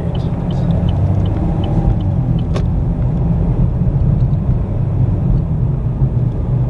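Honda car driving, heard from inside the cabin: a steady low rumble of engine and road noise, with one sharp click about two and a half seconds in.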